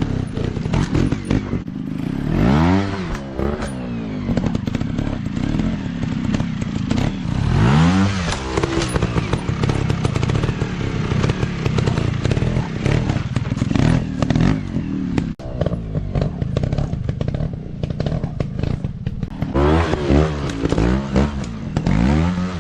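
Dirt bike engines running, with the throttle opened and closed in several rev-ups where the pitch climbs and falls, about 2 and 8 seconds in and again near the end, amid clattering.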